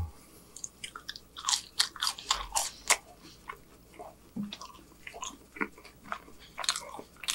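Close-miked chewing of French fries: irregular crunching and mouth clicks, busiest from about one and a half to three seconds in.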